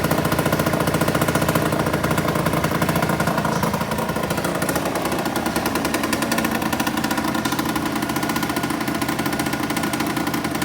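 Suzuki Street Magic CA1LB scooter's 50cc two-stroke single-cylinder engine idling steadily, the idle easing slightly lower about four seconds in.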